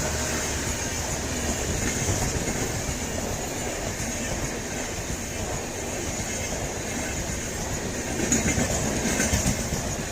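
Express passenger train running past at speed, its wheels clattering over the rail joints, a little louder about eight seconds in.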